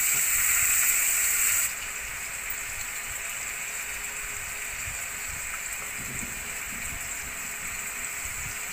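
Marinated chicken pieces sizzling in a hot wok: a steady frying hiss that drops abruptly in level about two seconds in, then carries on evenly.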